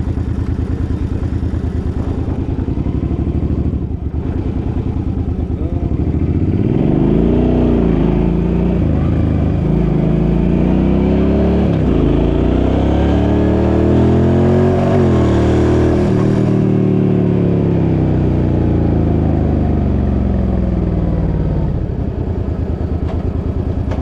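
Suzuki motorcycle engine under way. It runs steadily at first, then from about a quarter of the way in it pulls away, rising in pitch and dropping back at each gear change, three or so times. Later the pitch falls slowly as the bike slows, before it settles into steady running again.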